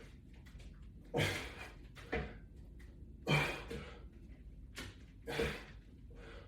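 A man breathing hard in short, forceful breaths in time with strenuous resistance-band repetitions, a strong exhale about every two seconds with quicker breaths between.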